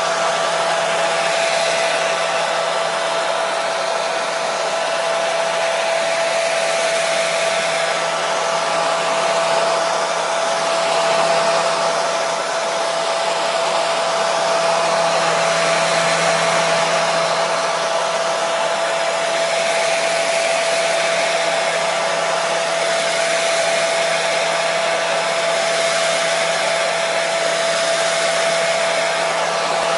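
Hair dryer running continuously: a steady rush of air with a constant whine from its motor and fan.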